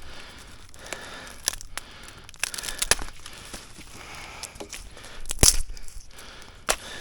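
Firewood crackling and snapping in a series of irregular small cracks, with a sharp knock about five and a half seconds in and another near the end.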